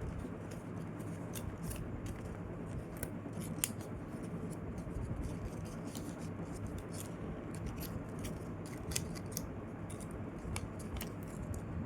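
Scattered light clicks and crinkles of a folded paper airplane being handled, over a steady low hum.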